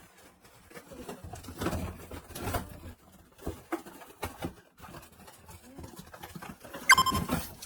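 Terrier dog moving about, with irregular scuffling knocks and scrapes and a short high squeak near the end.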